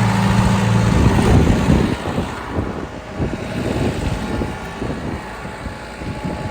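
Tractor engine running steadily, then about a second in it gives way to gusty, irregular wind rumble on the microphone, with the engine fainter behind it.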